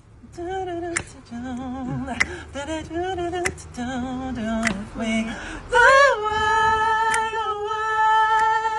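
Unaccompanied singing: wordless vocal runs with vibrato, then about six seconds in one long held note.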